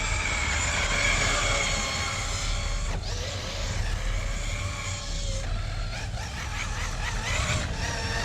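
FS Racing Tank 6S electric RC monster truck driving, its motor and drivetrain whining in several high pitches that rise and fall with throttle.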